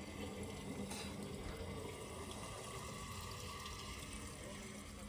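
A diesel engine running steadily, a low even hum under a steady rushing noise.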